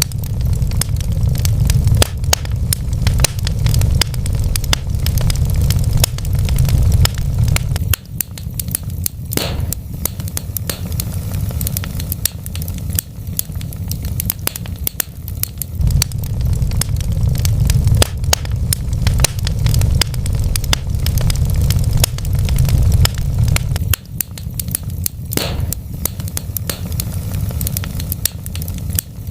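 Wood fire burning in a fireplace: logs crackling with many sharp pops, over a steady low rumble of the flames.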